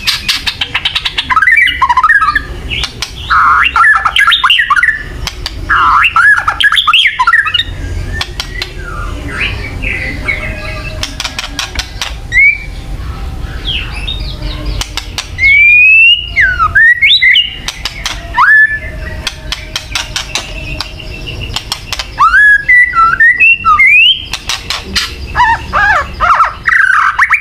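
White-rumped shama (murai batu) giving harsh rattling 'kretekan' calls: bursts of rapid clicking rattles broken by short whistled notes that swoop up and down.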